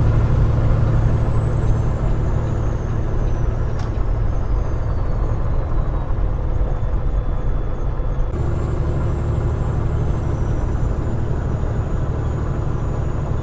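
Peterbilt 389 glider truck running down the road, heard from the cab as a steady low engine drone with road noise. A faint whine falls slowly in pitch over the first several seconds.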